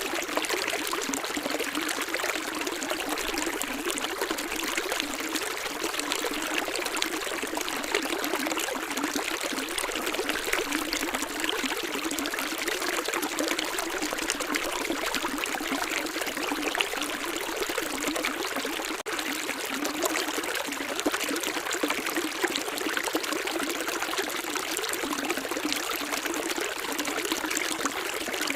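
Flowing water from a stream, splashing and trickling steadily, with a momentary drop in level about two-thirds of the way through.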